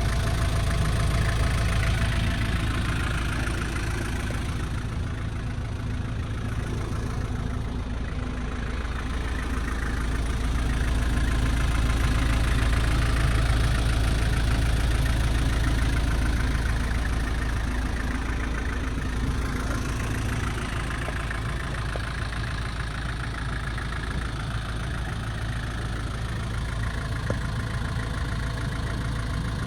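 A 1994 Nissan Atlas truck's TD27 four-cylinder diesel engine idling steadily.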